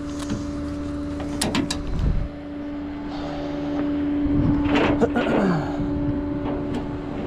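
Vehicle driving in traffic, heard from inside the cab: a steady engine drone, with a few sharp clicks about a second and a half in and a short falling whine about five seconds in.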